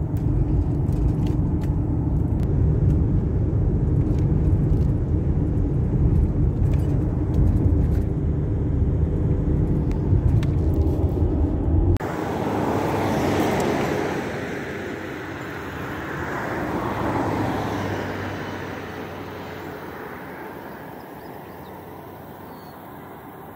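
Road noise and engine rumble inside a moving car. About halfway through it cuts off abruptly and gives way to an outdoor hiss that swells twice and then fades away.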